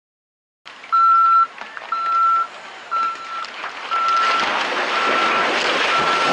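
Reversing warning beeper sounding about once a second, six half-second beeps at one steady pitch, with a rushing noise of machinery or wind growing louder behind it from about halfway.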